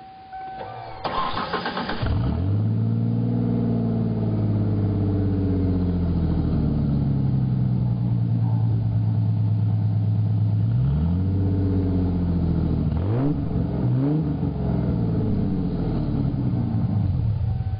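Straight-piped 3.8-litre V6 of a 1995 Ford Mustang being started: the starter cranks for about a second, then the engine catches with a brief flare of revs and settles into a steady idle. From about 11 seconds in it is revved a few times, rising and falling, before settling back to idle.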